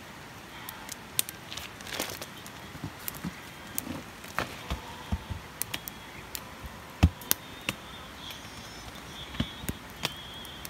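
A series of irregular sharp clicks and knocks, a dozen or more spread unevenly, the loudest about seven seconds in.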